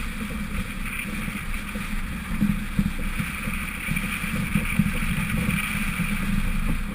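Lifted 1999 Honda CR-V's four-cylinder engine and tyres running steadily off-road, with irregular knocks and rattles from the bumps and some wind on the microphone.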